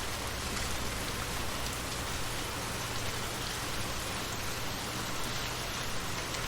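Steady light rain falling on a field, an even hiss with scattered drops.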